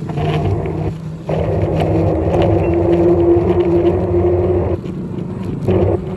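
Steady riding noise from a moving bike: a rush of wind and road noise with a low hum that drops away briefly about a second in and again near the end.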